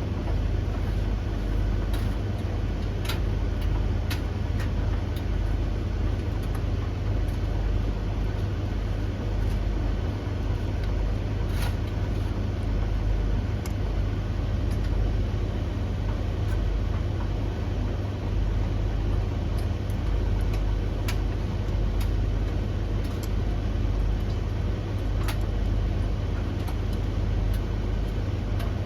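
Three tumble dryers, a Blomberg, a Russell Hobbs and a Hoover, running at once mid-cycle: a steady low drum rumble and motor hum, with scattered light clicks every few seconds.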